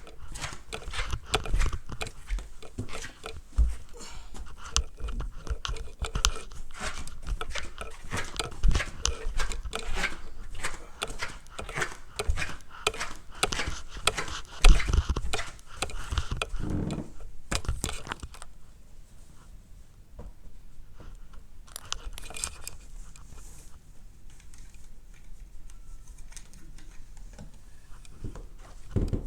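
Close crinkling, rustling and crunching handling noise: many small clicks and crackles, dying down to a quieter stretch with only occasional rustles for the last ten seconds or so.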